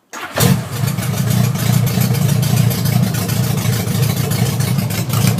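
1976 Honda Goldwing GL1000 flat-four engine running steadily through open headers with no mufflers, a loud rapid exhaust pulse. The sound starts abruptly just after the opening. The engine is still cold.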